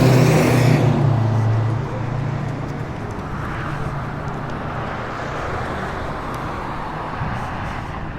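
Road traffic: a passing vehicle's engine hum is loudest for the first two seconds, then settles into steady road noise.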